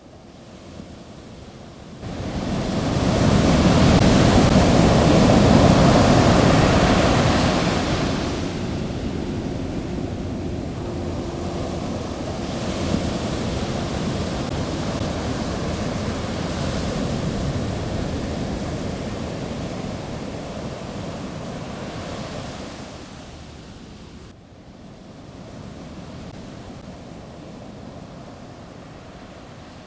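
A steady rushing noise like surf, swelling in about two seconds in and loudest for the next several seconds. It then settles lower and eases off further near the end.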